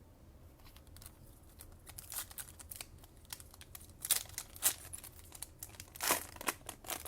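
Trading-card pack wrapper being crinkled and torn open by hand: irregular crackling that grows busier, with the loudest rips about four seconds in and again near the end.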